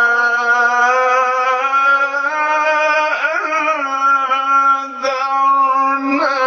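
A male Quran reciter's voice holding a long melodic note, with ornamental pitch turns about three seconds in and again near the end.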